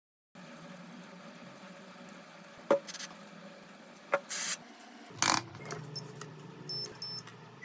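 Small tools and phone parts handled on a workbench: a couple of sharp clicks and taps and short scraping sounds over a faint steady hum, with a few small high beeps near the end.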